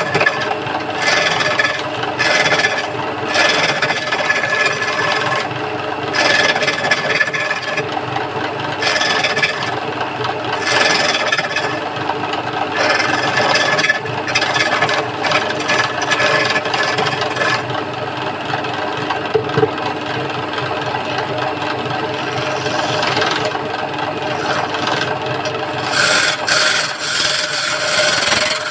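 Wood lathe running steadily while a hand chisel scrapes and cuts a spinning wooden stool leg in repeated strokes.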